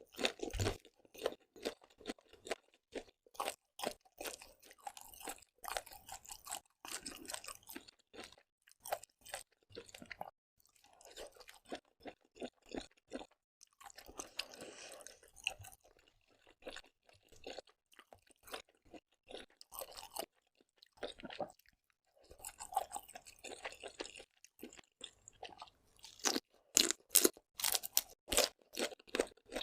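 Close-miked chewing of lobster and octopus: a dense, irregular run of sharp crunches and wet mouth clicks, busiest near the start and again in the last few seconds.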